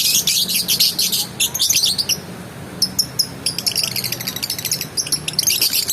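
Lovebird chattering in rapid, high-pitched chirps, with a short pause about two seconds in before the chatter starts again.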